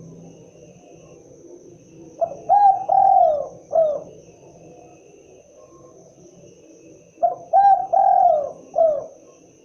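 Spotted dove (tekukur) cooing its typical call: two phrases of about four notes each, the middle notes longer and sliding down in pitch. The first phrase comes a little over two seconds in and the second about seven seconds in.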